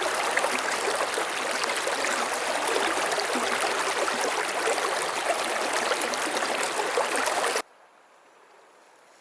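Mountain stream water rushing close by, a loud even rush that cuts off suddenly near the end, leaving only a faint hiss.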